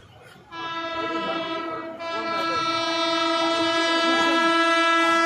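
Train locomotive horn sounding a long, steady blast that starts about half a second in and grows louder after a brief dip about two seconds in.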